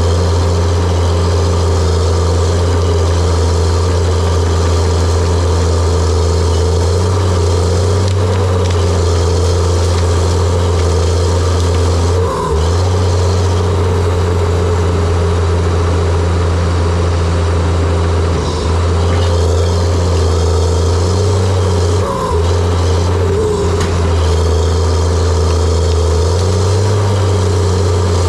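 John Deere 700J-II crawler dozer's diesel engine running steadily at working speed. Its deep hum briefly dips a few times.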